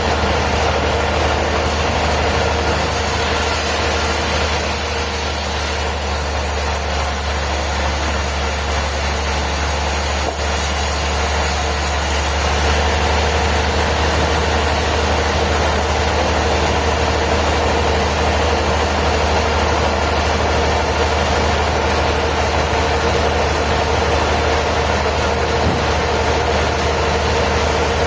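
Sawmill machinery running steadily with a constant engine-like hum and no cuts or impacts.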